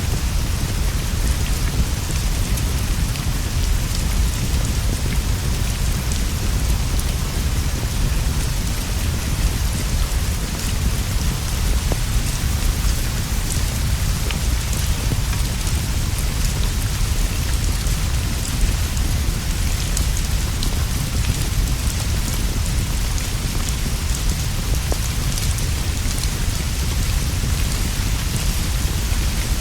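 Steady rain falling on leaves and a straw roof, with a constant low rumble underneath and scattered faint ticks.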